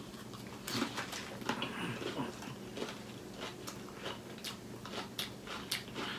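A person chewing a mouthful of nacho salad with tortilla chips: faint, irregular crunches and mouth clicks.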